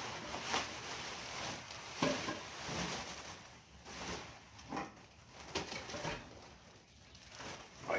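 Packing materials rustling and parts of the Stirling engine fan knocking lightly as it is handled out of its box: a string of short, irregular handling noises with quieter gaps between them.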